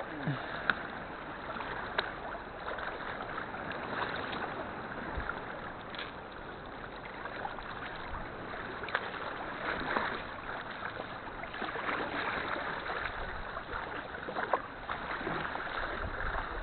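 Sea kayak paddling: the paddle blades dipping and splashing in the water, with water running off them and a few sharp knocks.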